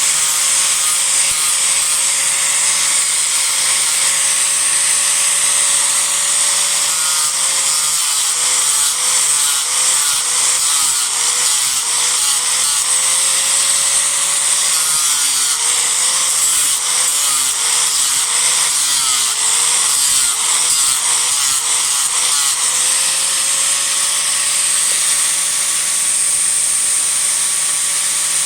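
Disc grinder running while rough-shaping a Japanese cedar offcut. Its motor tone drops and recovers again and again in the middle stretch as the disc bites into the wood, then runs steady again near the end.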